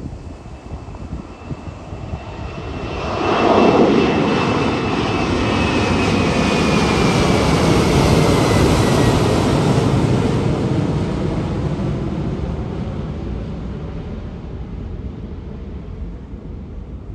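Airliner passing low overhead: its engine noise swells to a sharp peak about four seconds in, with a whine that falls in pitch as it goes by, then a long rumble that slowly fades.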